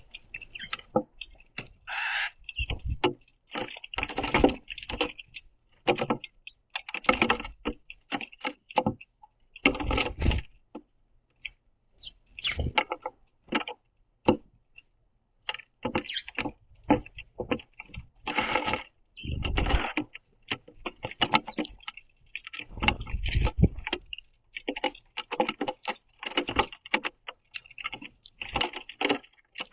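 House sparrows busy at a wooden platform feeder: irregular bursts of chirping, wing flutters and pecking and scrabbling on the wood, with a few heavier thumps.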